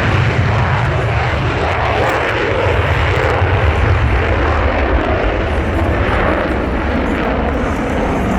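The twin F119 turbofan engines of an F-22 Raptor running at high power, a steady, loud jet noise, as expected for the announced maximum-power takeoff.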